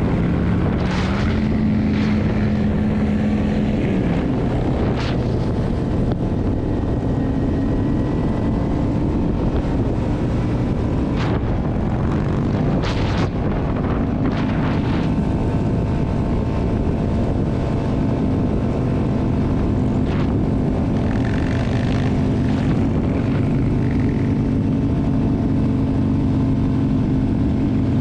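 Motorcycle engine running while riding, its note shifting up and down with the throttle, over steady wind noise on the helmet-camera microphone. A few short clicks come through now and then.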